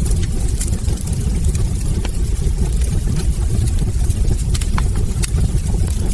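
Wood fire burning in a fireplace: a steady low rumble of the flames with many small, sharp crackles and pops scattered through it.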